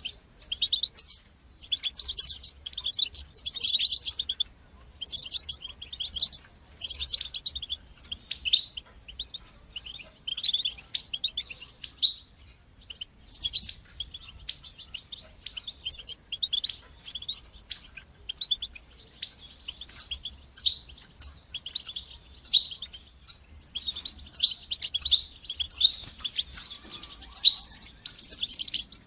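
European goldfinch singing: quick twittering chirps and trills delivered in phrases of a second or two, with short pauses between them.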